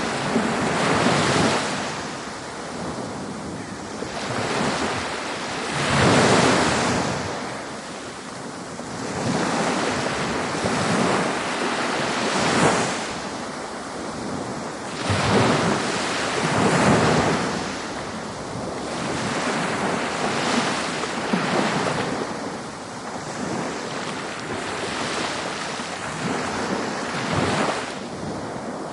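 Ocean waves breaking and washing on a beach, a steady rush of surf that swells and ebbs every few seconds, with several louder breakers.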